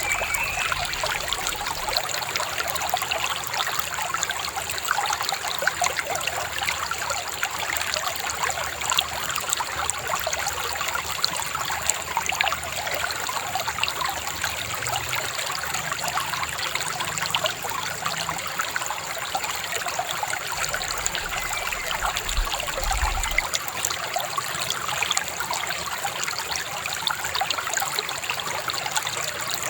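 Shallow river babbling and trickling steadily over stones.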